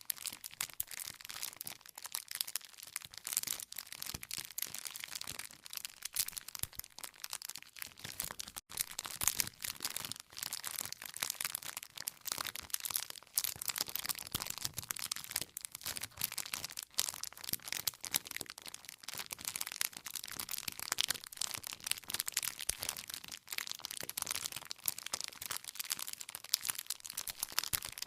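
Wood campfire crackling, with a dense, continuous run of small sharp pops and snaps from the burning firewood.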